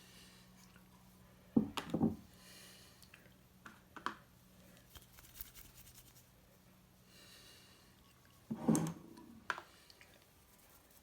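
Small knocks and scrapes from handling a ceramic bowl and working repair filler onto it, in two clusters, about a second and a half in and again near nine seconds, with scattered light clicks between. A faint steady hum stops about eight seconds in.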